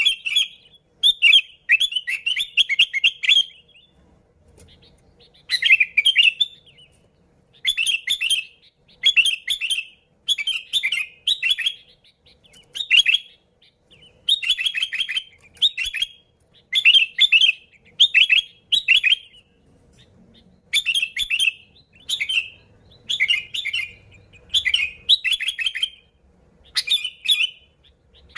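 Sooty-headed bulbul (kutilang) singing: a run of short, bubbly, warbling phrases, roughly one a second, with brief pauses between them.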